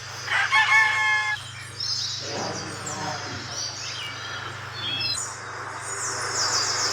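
Bird-like chirping: a short held call about half a second in, then repeated rapid high-pitched trills.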